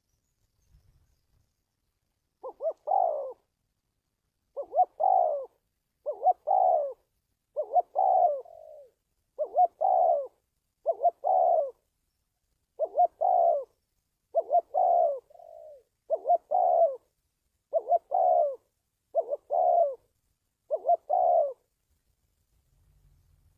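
Spotted dove cooing: a series of about a dozen calls, one every second and a half or so, each a quick pair of short notes running into a longer coo, a few with a soft extra coo trailing after.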